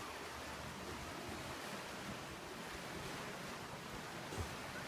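Ocean surf washing on a beach: a steady, even rush of waves, with a little wind on the microphone.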